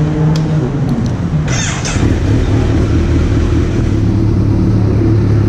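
Kawasaki Z900's inline-four engine idling steadily, with a short hiss about one and a half seconds in.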